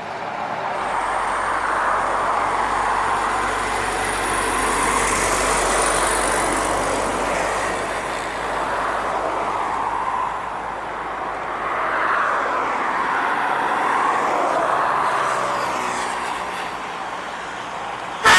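Heavy trucks passing on a highway, their tyre and engine noise swelling and fading in several waves. A truck air horn blares suddenly at the very end.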